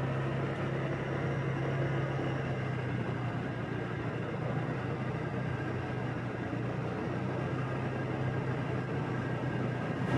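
Motorbike engine running at a steady cruising speed, a constant low hum under steady road and wind noise.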